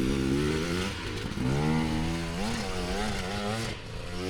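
Dirt bike engine revving hard on a climb: the pitch rises, drops about a second in, rises again, then wavers up and down as the throttle is worked.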